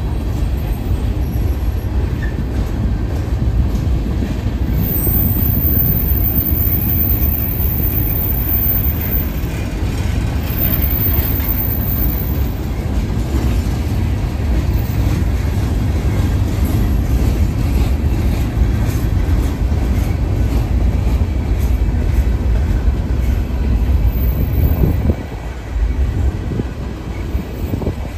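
Freight train rolling past: a steady rumble of wheels on the rails with continuous clatter, easing briefly about 25 seconds in before picking up again.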